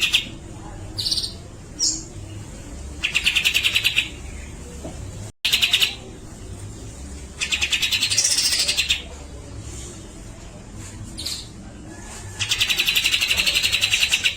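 Grey-cheeked bulbul (cucak jenggot) singing in rapid rattling trills of about a second each, repeated five times, with short single whistled notes between them.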